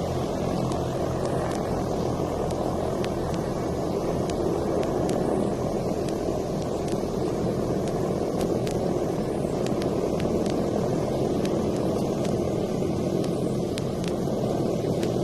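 A vehicle running steadily at constant speed: an even, unchanging noise, with faint scattered ticks over it.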